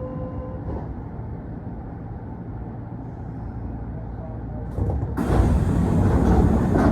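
Inside a Kintetsu train car standing at a station with its doors open: a low steady rumble of the train's running equipment. About five seconds in, a loud rushing hiss sets in and holds to the end.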